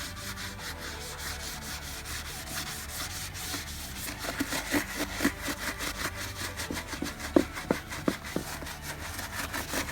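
Rapid back-and-forth hand scrubbing on a wet, rusty wheel rim with a scouring pad and cleanser, about as a cleaning stage to knock off the rust. The strokes turn sharper and choppier from about four seconds in.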